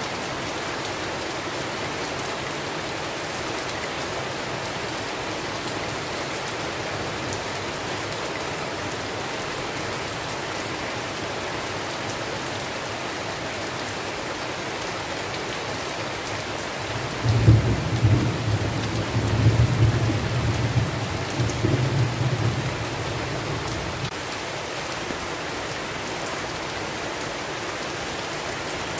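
Steady heavy rain, with a roll of thunder about two-thirds of the way in: it breaks suddenly, rumbles low for several seconds and fades away.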